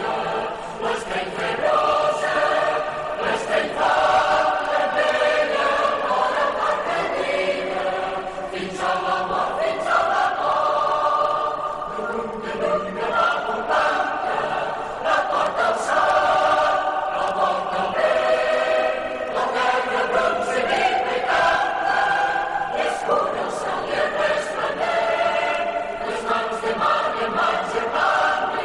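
A large crowd of voices singing together, holding and changing notes as one, with scattered sharp strokes that sound like claps.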